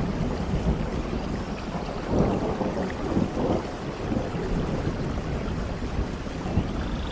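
Thunder rumbling through steady rainforest rain, the rumble swelling about two seconds in and again a second later.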